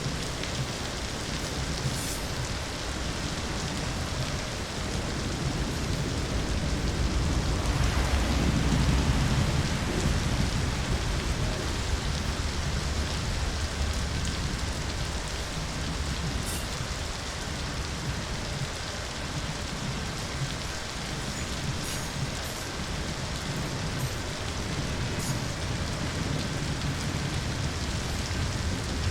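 Steady rain falling, with a low rumble of distant thunder that swells and fades about a third of the way through.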